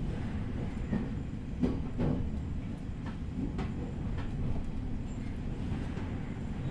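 Interior running noise of an E501 series electric train moving slowly under a strong-wind speed restriction: a steady low rumble with a few separate wheel clacks over rail joints.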